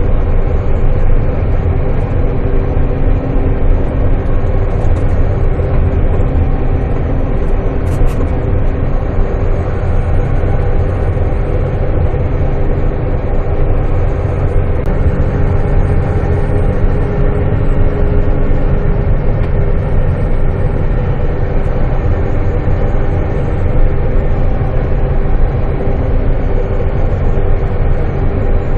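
Semi truck's diesel engine and road noise while driving, a steady, loud low-pitched sound with a constant hum.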